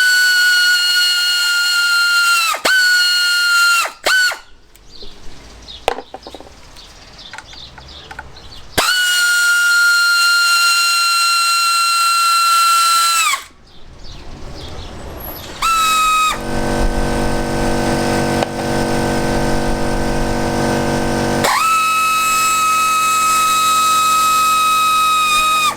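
Cordless power tool motor whining steadily as it spins out the 10 mm bolts of a Fiat 500 engine's centrifugal oil filter cover. It runs in several bursts of one to five seconds, each dropping slightly in pitch as it stops, with a lower, rougher buzz in the middle stretch.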